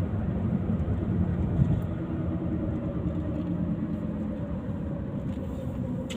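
A car being driven: steady engine and road rumble.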